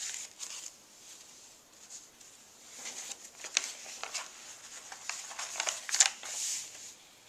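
Paper pages of a handmade journal being turned and handled, giving a series of short rustles and flaps.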